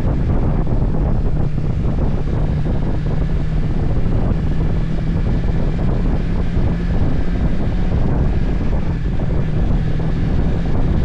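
Motorcycle engine running steadily at cruising speed, with heavy wind buffeting the microphone.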